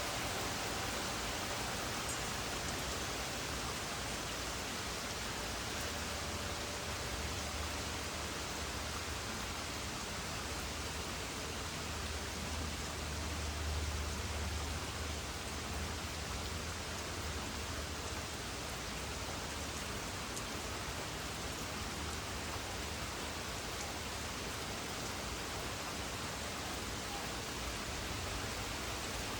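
Steady rain falling in a thunderstorm. A low rumble swells and fades in the middle.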